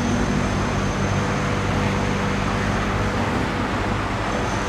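Steady road traffic noise, with a low, even engine hum under it.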